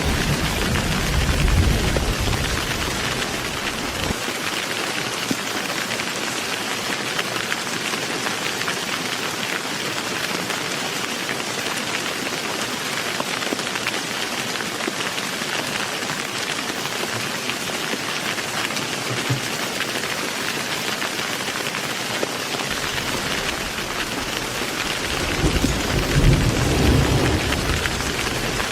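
Heavy rain falling in a steady hiss, with a low rumble of thunder fading out in the first few seconds and another rolling in near the end.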